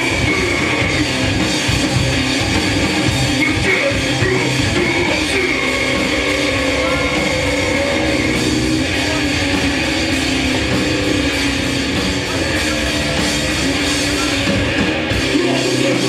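Hardcore punk band playing live: loud distorted electric guitars and a drum kit, with shouted vocals, in a dense, continuous wall of sound.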